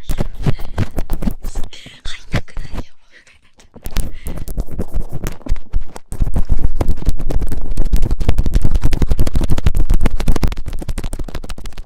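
Close, loud scratching and rubbing right on a binaural microphone's ear, ASMR ear-cleaning sounds in dense crackling strokes. It comes in spells: one in the first two seconds, a brief one, then a long, loudest stretch from about six seconds in.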